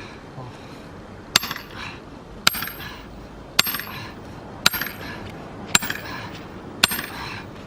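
Six evenly spaced hammer blows, about one a second, metal striking metal with a short bright ring, driving a steel splitting tool into a log of firewood.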